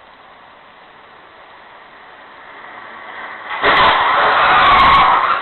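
Road vehicle noise: a low steady rumble that swells, then a sudden loud, sustained noise about three and a half seconds in.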